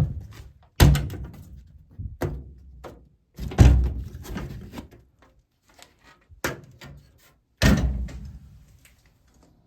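Sheet-metal furnace panels being handled: a series of about six thunks and knocks, each ringing briefly, as the cabinet is opened up.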